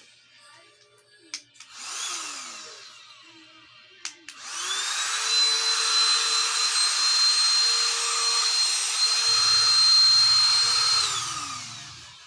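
Small 3-in-1 vacuum cleaner's electric motor switched on for a short whir about two seconds in, then switched on again, rising to a steady high whine that runs for about seven seconds before spinning down near the end.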